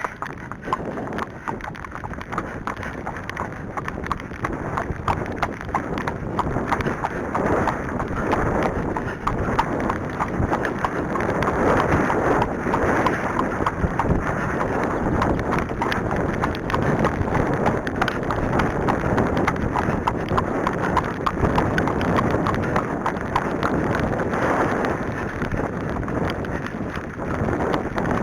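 Arabian horse's hooves striking the ground in a steady run of beats as it is ridden, over wind noise on the microphone.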